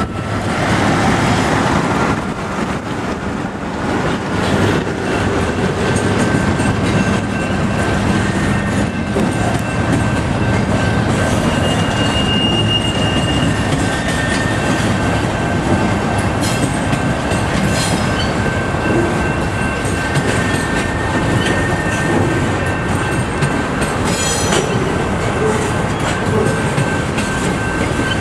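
Double-stack intermodal freight train's well cars rolling past at speed: a steady rumble of wheels on rail, with a thin, steady high wheel squeal and an occasional clack as wheels cross rail joints.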